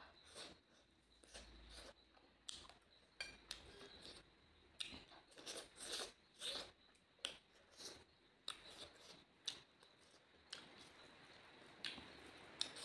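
Faint close-up chewing of rice and chicken eaten by hand: short, wet mouth clicks and smacks about one or two a second.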